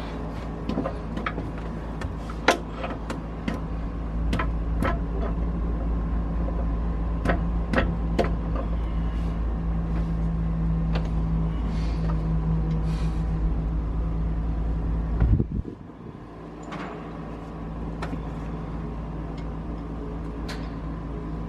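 Sharp metal clinks, taps and knocks at irregular intervals from tools and parts being handled while pistons are removed from a DT466E diesel engine. Underneath is a steady low hum that drops out briefly about 15 seconds in, then returns.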